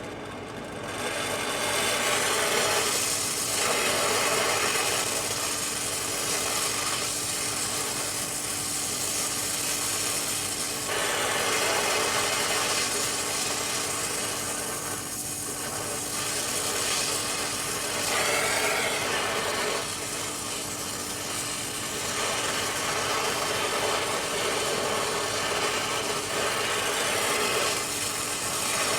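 Rough, continuous rasping noise of tool work that swells and eases every few seconds, over a steady machine hum.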